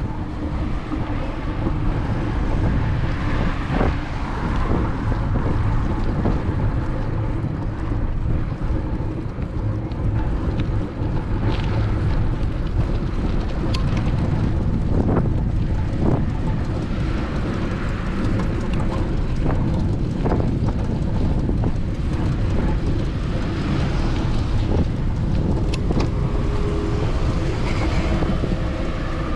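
Wind buffeting the microphone, a steady low rumble with scattered light clicks.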